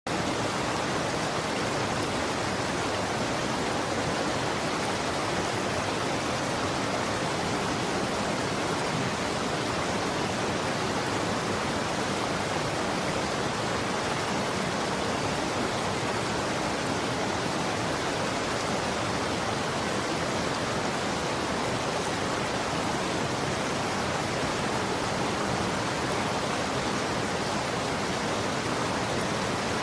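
Running water, a steady, even rush without breaks or changes.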